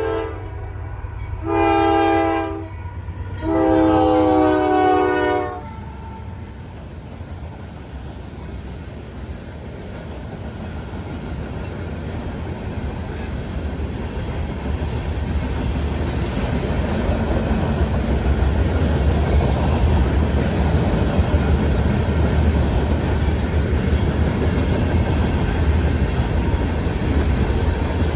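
Norfolk Southern freight locomotive's air horn sounding for a grade crossing: a short blast about two seconds in and a longer one ending about five seconds in. Then the rumble of the manifest train passing builds steadily, with wheels clacking over the rail joints.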